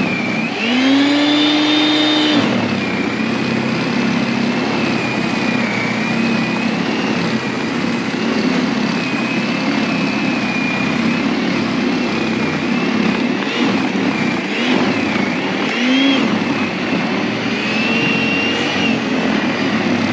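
Snow Joe electric snow blower running: a steady motor whine that drops in pitch about two seconds in as it takes on snow, then wavers up and down as it clears.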